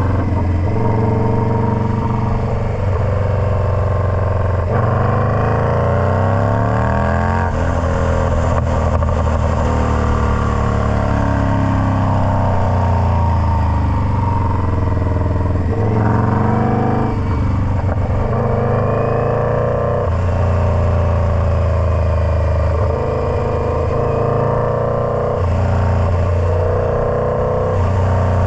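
Indian Scout Bobber's V-twin engine running through a Freedom Performance Combat 2-into-1 exhaust. Its pitch repeatedly climbs and falls over several seconds, with several abrupt changes in note.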